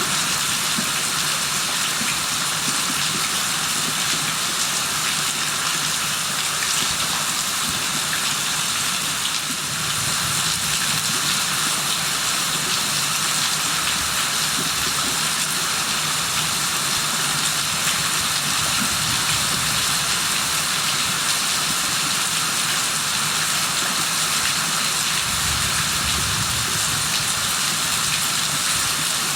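Steady rain falling, a dense even hiss of drops on surfaces, with a few brief low rumbles under it.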